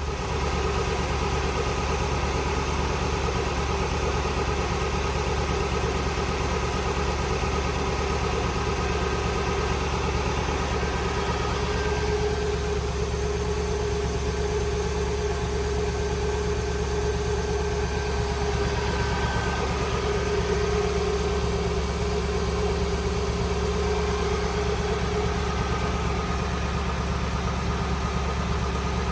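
1999 Lexus GS400's 4.0-litre V8 idling steadily after a cold start, heard through its aftermarket Revel Medallion exhaust.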